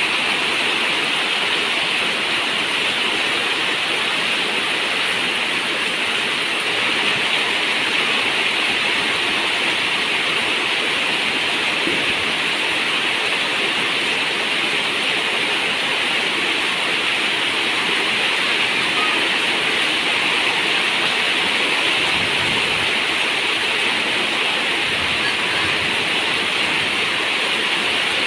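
Steady rain on a zinc roof, an even hiss with no separate drops standing out.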